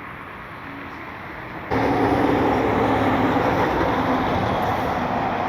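Boeing 737-900 jet engines running with a steady rushing roar and hum. The sound comes in abruptly, loud, a little under two seconds in.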